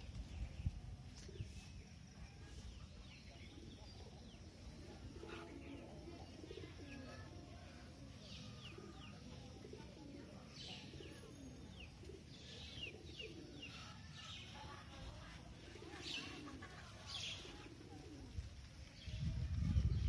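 Birds calling, faint: low calls in the first half, then a run of short, high, falling chirps from about eight seconds in. A low rumble comes up near the end.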